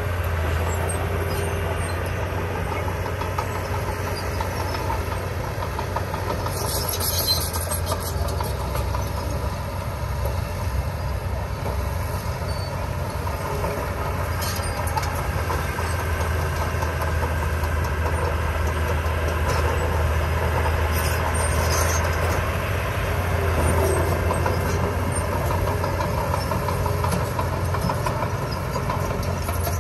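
Heavy construction machinery's diesel engine running steadily, with a brief high hiss about seven seconds in.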